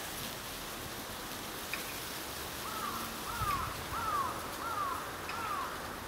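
A bird calling five times in an even series, short calls that each rise and fall in pitch, starting about halfway through, over a steady background hiss.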